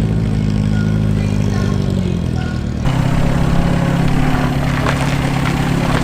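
A car engine running steadily. About three seconds in, a louder, rougher engine sound takes over.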